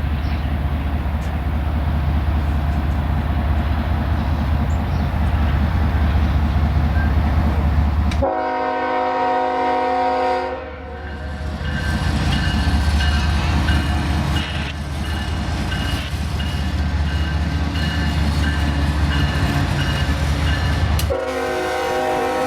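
Diesel freight locomotives running loud and close with a deep engine rumble. The multi-tone air horn sounds a blast about eight seconds in and starts another near the end.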